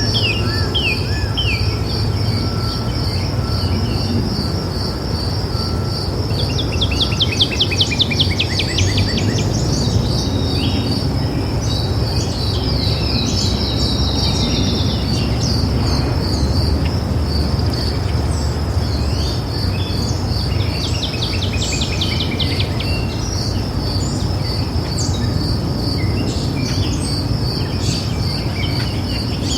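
Several songbirds singing in short sweeping phrases and quick trills over a steady, rapidly pulsing high chirring, with a steady low rumble underneath.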